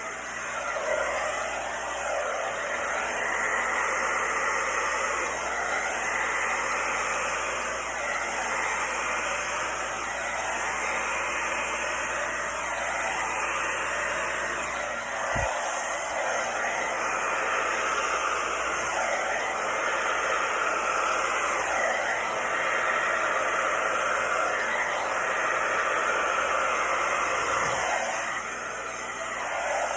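Handheld electric hot-air blower running steadily, a continuous rushing air noise with slow shifts in its tone, of the kind used to blow and spread poured acrylic paint.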